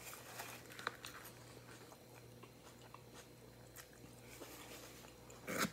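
Faint close-up chewing of a mouthful of grilled chicken salad, with small crunches and mouth clicks scattered throughout, and a brief louder noise just before the end.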